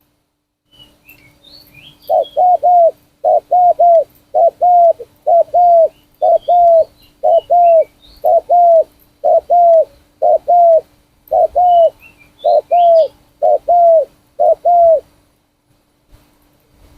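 Trained spotted dove cooing: a long run of repeated two-note coos starting about two seconds in and stopping a couple of seconds before the end. Small birds chirp faintly in the background a few times.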